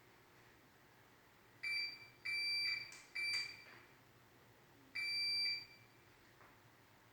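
An electronic beeper sounding four high, single-pitched beeps of uneven length, the last one the longest, with a faint click or two around the third.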